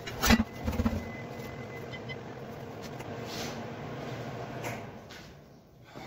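Welding in short crackling bursts that stop about a second in, followed by a steady even hiss that fades near the end.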